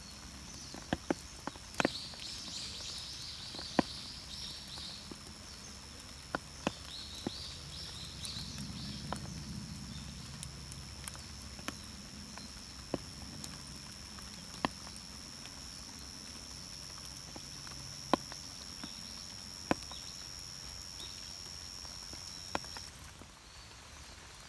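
Irregular sharp clicks and taps, spaced a second or more apart, over a steady high-pitched whine that cuts off near the end.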